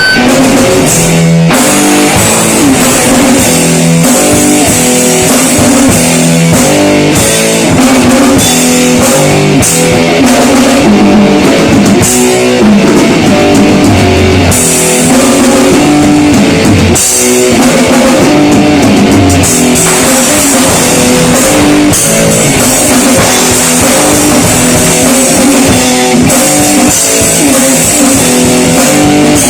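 Rock band playing: electric guitars play a chugging chord riff over a drum kit.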